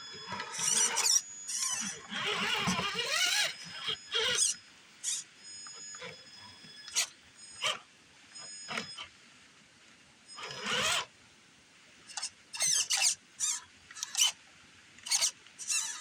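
Traxxas RC F-150 crawler's electric motor and gears whining in short throttle bursts, a high wavering squeal that stops and starts a dozen or so times.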